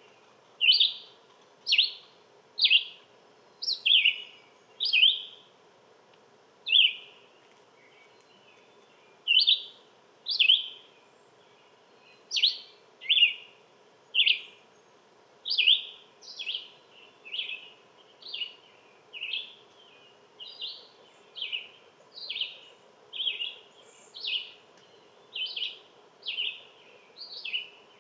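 One small animal calling a short, sharp chirp over and over, at first about one a second with a few pauses, then in a steadier, quicker series in the second half. A faint steady hum sits underneath.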